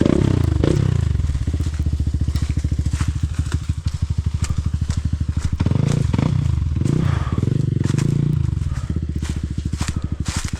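Off-road motorcycle engine running under way on a trail, its firing pulses steady, pulling harder about six seconds in for a couple of seconds before settling again. Scattered sharp clicks and crackles come over it throughout.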